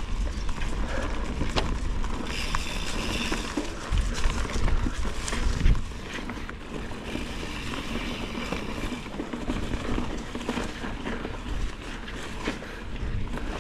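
Bicycle ridden over a forest trail: wind rumbling on the microphone, with rattles and knocks from the bike over bumps, heaviest about four to six seconds in.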